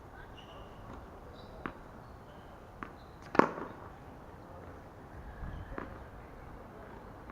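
Tennis ball pops of a groundstroke rally, rackets striking the ball and the ball bouncing on the court: four sharp hits, the loudest about three and a half seconds in.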